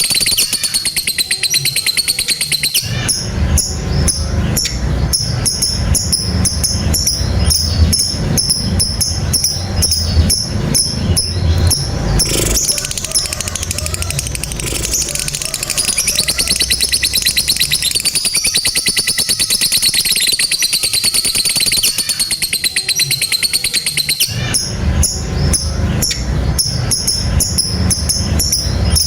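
Lovebird giving a long, rapid rattling trill ("ngekek panjang"), the extended chatter that hobbyists prize in a singing lovebird. A low rumble runs beneath it from about three seconds in to twelve, and again near the end.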